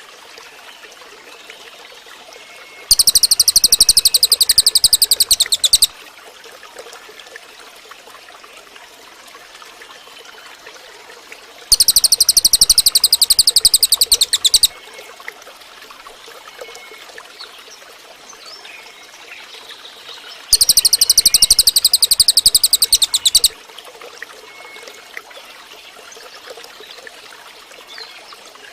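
Cililin bird song recording: three loud, very rapid high-pitched trills of about three seconds each, evenly spaced about nine seconds apart, with faint chirps between them.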